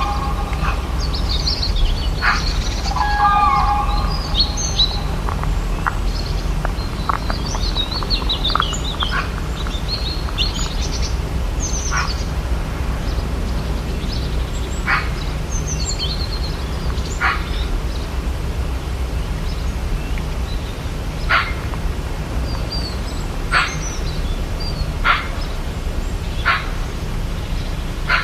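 Rainforest birds chirping and trilling in a busy mix for about the first twelve seconds, then single sharp call notes repeated every one and a half to four seconds. A steady low rumble runs underneath.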